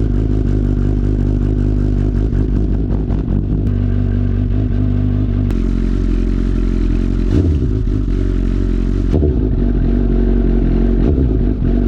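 Suzuki GSX-S1000 inline-four running through a Leo Vince full-system aftermarket exhaust, idling shortly after a cold start. The idle steps down about halfway through, and there are three short throttle blips near the end.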